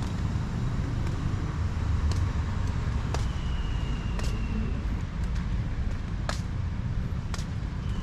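Street traffic with a steady low rumble, marked by a few sharp clicks and a faint high thin tone held for about a second and a half near the middle.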